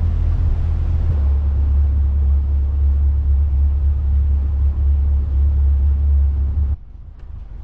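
Motor boat's inboard engines running with a loud, steady low drone, which shifts slightly about a second in and drops away abruptly near the end, leaving quieter wind and water.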